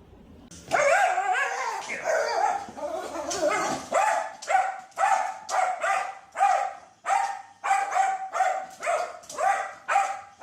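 A dog giving a run of short, high yips, about a dozen at a steady pace, after a longer wavering call about half a second in.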